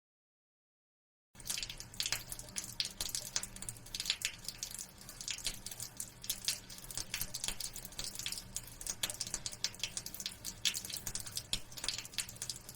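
Rain falling as close, irregular drips and patters, starting after about a second and a half of dead silence.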